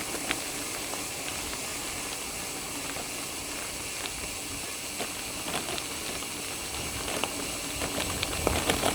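Gravel bike tyres rolling over a gravel trail: a steady hiss with scattered clicks of small stones, growing rougher with low rumbling and louder knocks near the end.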